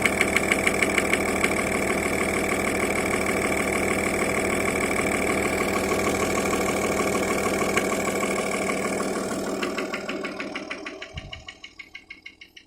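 Audi A6 C5 2.5 TDI (AFB) V6 diesel engine idling, with a regular knock running through the sound. The owner cannot explain the knock: at idle it comes and goes, and with revs it is always there. Near the end the sound fades away, with a single low thump.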